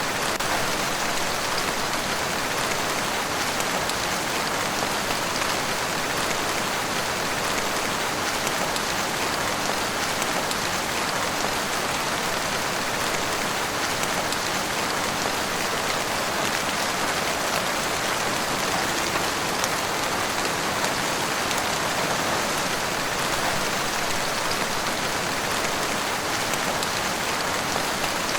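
Heavy rain falling steadily, an even downpour with no let-up.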